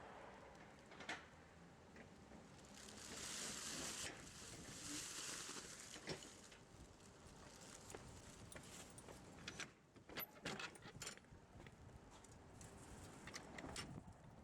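Faint, scattered clicks and knocks of hand work on a car wheel, with a few seconds of soft hissing rustle about three seconds in.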